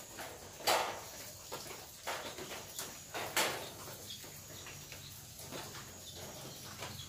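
Light rain dripping onto a corrugated zinc roof: scattered drops with a soft steady hiss, and two louder hits, one about a second in and one near the middle.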